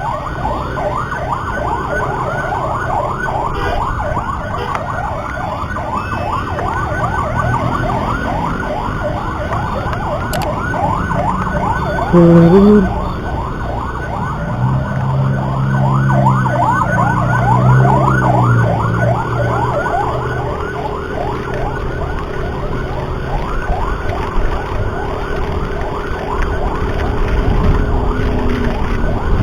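Emergency vehicle siren sounding a fast, continuous yelp that sweeps up and down several times a second. A short, loud horn blast cuts in about twelve seconds in, and lower vehicle tones pass underneath in the second half.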